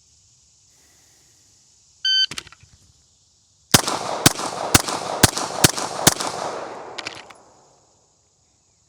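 Shot timer start beep, then about a second and a half later six pistol shots fired in quick succession, a little over two a second, with echo fading after the last: a Bill drill at 25 yards.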